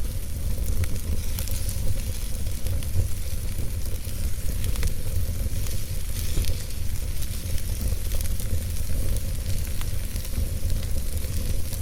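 Wood fire burning in a fireplace: a low rumble of flames under a steady hiss, with many small, irregular crackles and pops.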